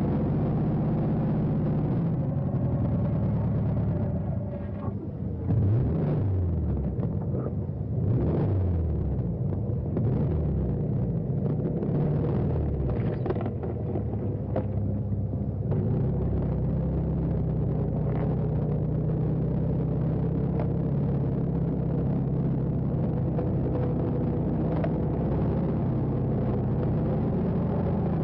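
Car engine running steadily, revved up and down a couple of times about five and eight seconds in.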